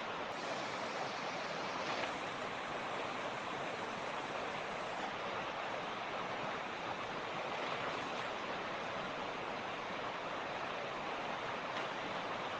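Creek water rushing and splashing over rocks: a steady, even rushing without pause.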